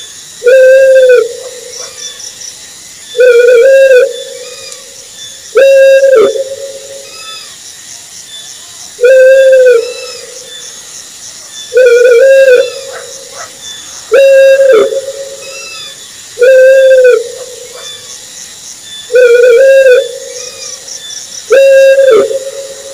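An owl calling, giving a single steady-pitched hoot, repeated nine times at an even pace of about one every two and a half seconds.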